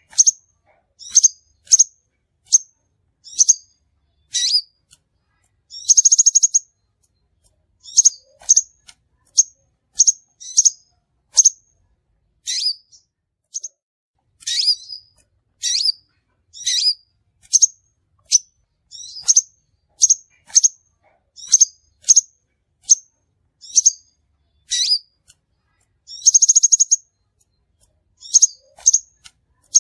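Crimson sunbird calling: a series of sharp, high-pitched chirps, about one or two a second, broken twice by a short buzzy trill.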